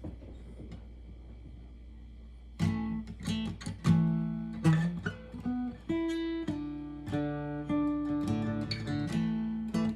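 Acoustic guitar playing the song's introduction: a low hum for about two and a half seconds, then strummed chords begin.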